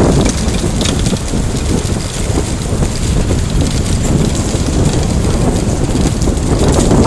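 Wind buffeting the microphone of a camera riding on a moving bicycle: a loud, uneven low noise with no let-up.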